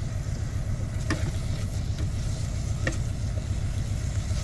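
Mushrooms and onions frying in an Instant Pot, a soft sizzle with two sharp pops, over a steady low rumble.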